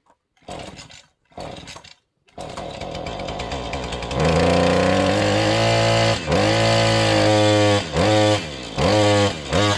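Two-stroke chainsaw: two short bursts, then it runs from about two seconds in and goes to full revs around four seconds in. Its pitch dips and recovers several times, as with throttle blips or the chain loading in the cut.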